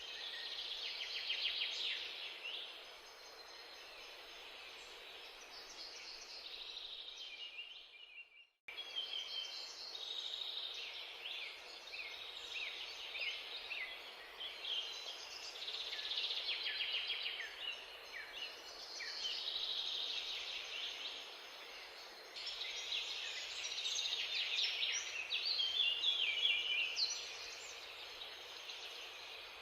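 Many small birds chirping together in a busy, continuous twittering, over a faint background hiss.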